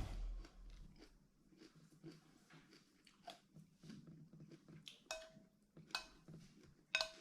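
A person chewing crunchy food close to the microphone, with soft irregular crunching. In the second half, three sharp clinks of cutlery against a dish.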